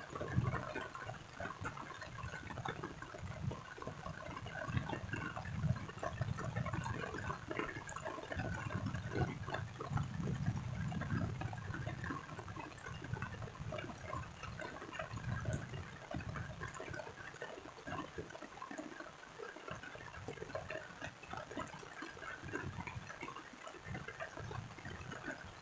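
Steady rain, a dense scatter of small drop sounds over an uneven low rumble.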